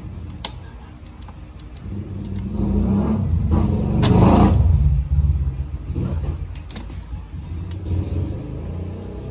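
A motor vehicle passing by: a low rumble that builds over a couple of seconds, is loudest about four seconds in, then fades. A few light clicks sound before it.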